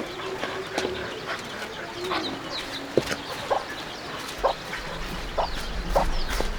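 Chickens clucking in short, scattered calls, with small birds chirping; a low steady rumble comes in near the end.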